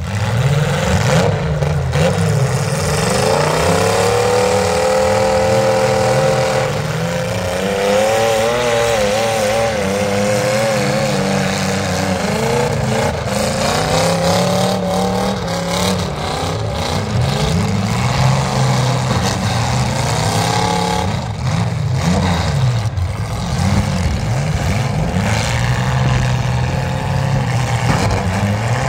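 Limousine demolition-derby cars' engines revving hard and dropping back again and again, several running at once. A few sharp knocks from the cars colliding.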